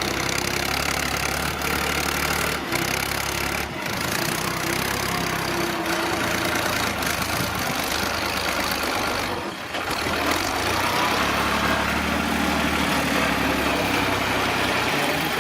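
Tractor engine running steadily, with a few brief dips in the sound.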